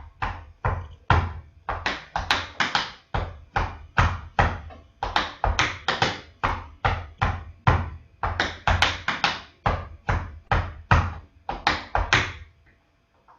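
Tap shoes striking a hard floor in a long run of sharp taps, about three a second in uneven groups, stopping a little before the end. The pattern is the tap step brush, tap, chug, chug, chug (heel drops with the toes kept on the floor), repeated.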